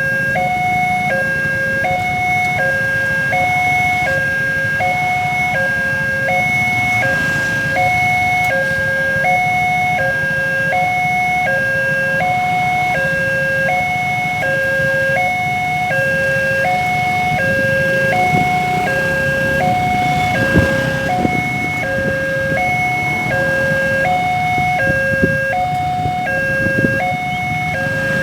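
Railway level-crossing warning alarm sounding a steady two-tone electronic 'ting-tong', switching between its two notes about every 0.7 seconds. It sounds over the low rumble of road traffic waiting at the closed crossing, with a few short knocks in the second half.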